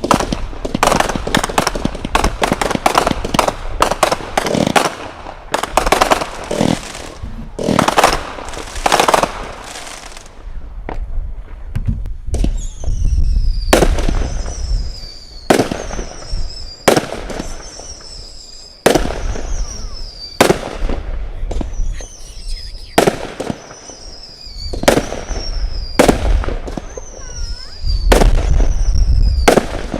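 Consumer fireworks cakes firing. The first ten seconds or so are a dense run of rapid shots and crackling bursts. After that, single shots come about every second and a half, each followed by a short falling whistle, with low rumbling between them.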